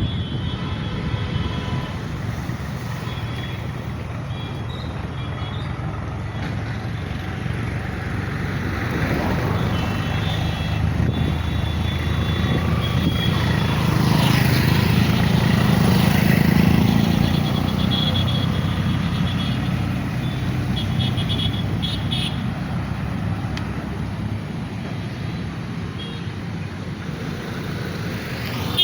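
Road traffic: vehicle engines and tyres running steadily, growing louder about halfway through as a heavy vehicle passes, with faint high beeps now and then.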